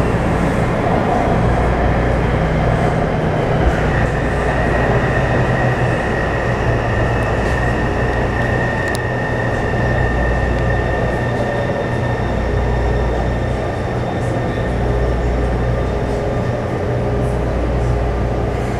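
Taipei Metro C301-series train with refurbished propulsion running along the line, a steady rumble with a low hum. A high steady whine from the traction equipment comes in about four seconds in and fades out about halfway through, and a lower steady tone appears near the end.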